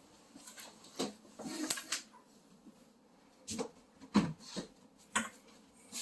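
A few scattered light knocks and clicks, as of things being handled and moved, with quiet in between.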